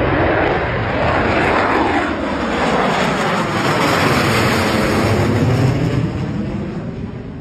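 Fighter jet engine roar as the jet flies past, with sweeping, phasing tones running through the noise, fading away near the end.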